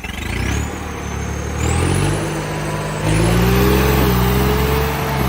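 John Deere tractor's diesel engine revving up from idle in three steps, its note climbing each time, with a high whine rising alongside.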